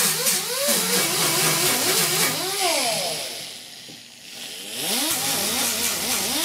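Electric angle grinder grinding paint off sheet steel, its motor pitch wavering under load. A little past halfway it spins down nearly to a stop, then is switched on again and winds back up to speed.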